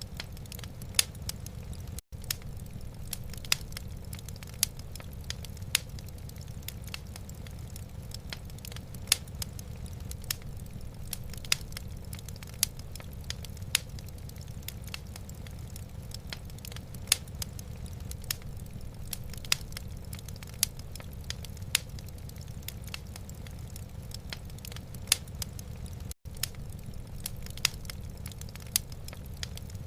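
Wood fire in a fireplace crackling, with sharp irregular pops over a steady low rumble. The sound cuts out for an instant twice.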